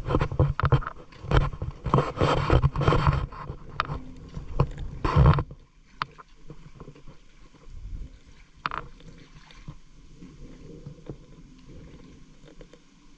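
Shallow water splashing and sloshing, dense and irregular for about five seconds, then stopping suddenly. After that it is much quieter, with a few small splashes and clicks.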